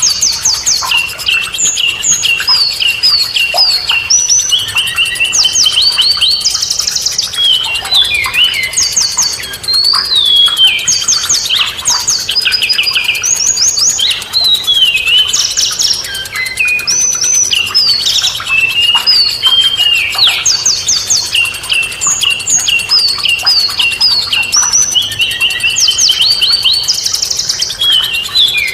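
Songbirds singing without pause: quick high chirps, whistled notes and fast trills crowding over one another.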